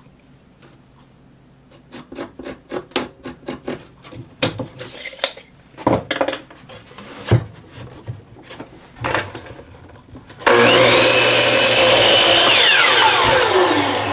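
Scattered knocks and clicks of wood being handled, then an electric saw starts abruptly about ten seconds in and runs loudly, cutting a cedar fence board to length. Near the end its whine falls steadily in pitch as the blade spins down.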